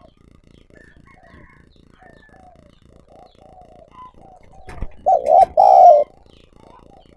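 Spotted doves cooing: faint, repeated coos throughout, then a sharp click and a loud, close coo of two notes about five seconds in.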